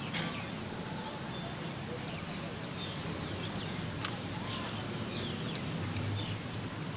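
Small birds chirping: short falling chirps every second or so over a steady background hum, with a couple of sharp clicks about four and five and a half seconds in.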